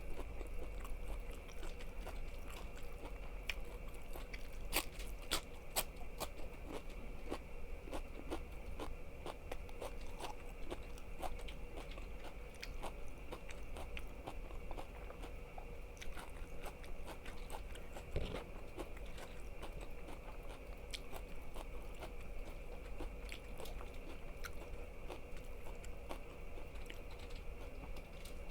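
Close-miked eating sounds: biting into and chewing crunchy food, with many sharp crisp crunches following one another throughout.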